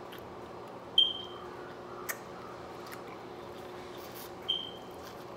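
Chewing and biting into corn on the cob, over a faint steady hum. Two short, high ringing clinks, about a second in and again near the end, are the loudest sounds, with a small click in between.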